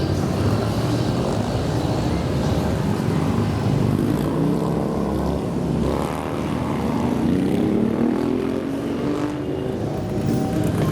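Motorcycle engines running as bikes ride off in a column; one engine note rises and falls between about six and nine seconds in as a bike pulls away past the microphone.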